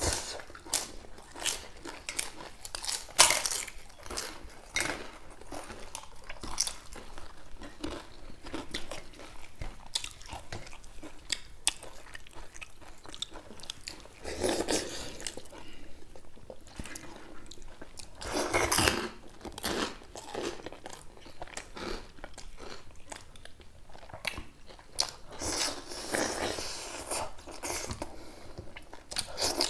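Close-miked chewing and crunching of two people eating with their hands, with crisp bites of papad crackling and a few louder crunches now and then.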